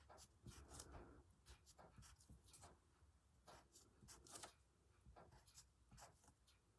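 Faint, irregular swishes of embroidery thread being drawn through fabric with a needle during hand stitching.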